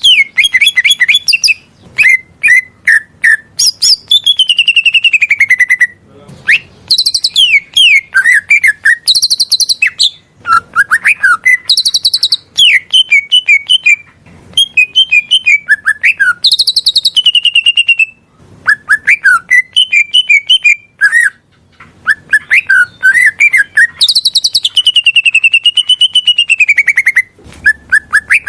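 Cucak ijo (green leafbird) singing loudly, a varied song of rapid chirps, trills and long sweeping whistles. It comes in phrases a few seconds long, broken by short pauses.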